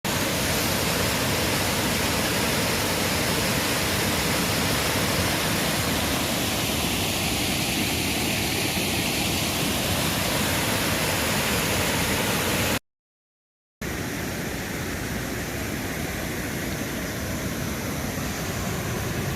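Rushing water of a mountain river, a loud steady noise. It breaks off in dead silence for about a second partway through, then carries on slightly quieter.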